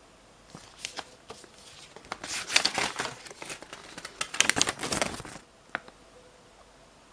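Packaging being handled, crinkling and rustling in bursts for about five seconds, with a few sharp clicks near the start and one more after it dies down.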